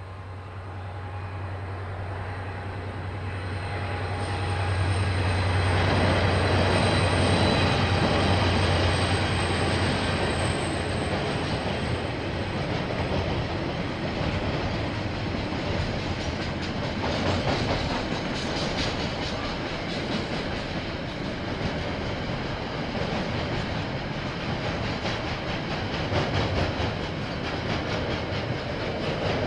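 A KiwiRail diesel train passes close by. The locomotive's deep engine hum builds to its loudest a few seconds in, then fades, and the wagons follow, rolling steadily with a rhythmic clickety-clack of wheels over the rail joints.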